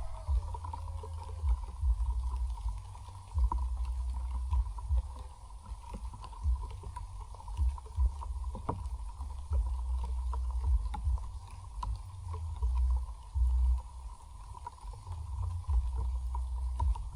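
Wind buffeting the microphone in uneven gusts, with scattered light ticks and a faint steady high tone behind.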